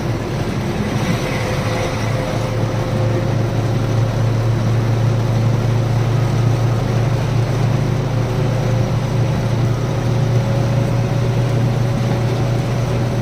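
Lorry's diesel engine and road noise heard steadily while cruising on a highway: a constant low drone with a faint thin whine above it.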